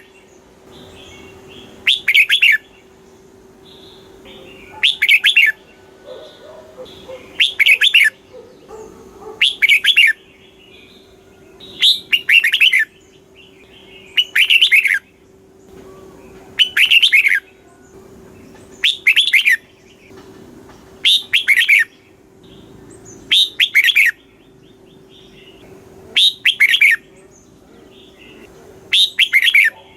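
Red-whiskered bulbul singing: a short, loud phrase of quick falling whistled notes repeated at an even pace, about every two to two and a half seconds.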